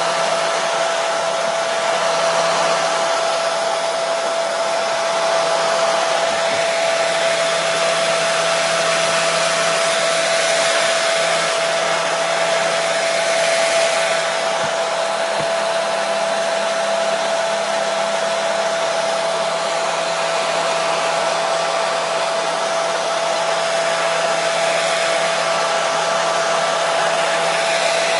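Hair dryer running continuously: an even rush of blown air with a steady motor whine, unchanging in pitch and loudness.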